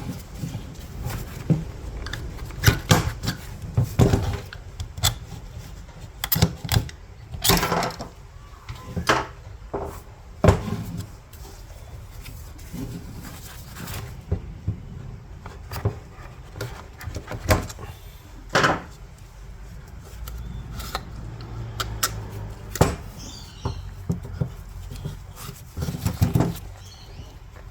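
Irregular clicks, knocks and light scrapes of hard plastic and metal parts being handled as the fuel pump is worked out of its in-tank pump assembly.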